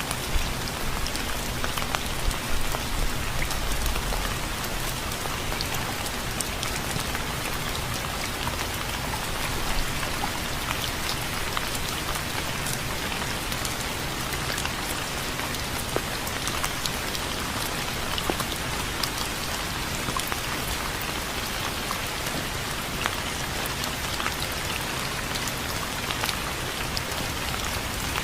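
Steady rain falling, a dense even hiss with many individual drops ticking through it. A brief low rumble a few seconds in.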